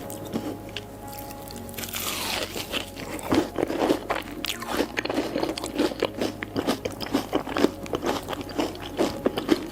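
Close-miked crunching and chewing of crunchy Hot Cheetos-coated food, many sharp crunches in quick succession, getting denser about two seconds in, over soft background music.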